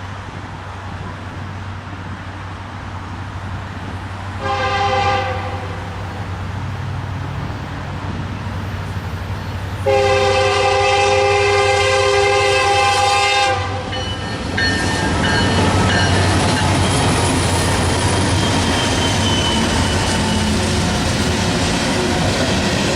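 Norfolk Southern diesel freight locomotive's air horn sounding with only two of its bells working, a sound called very foul: a short blast about four seconds in and a long blast about ten seconds in, over a steady low locomotive rumble. From about fourteen seconds in, the train passes close by with louder engine and wheel noise.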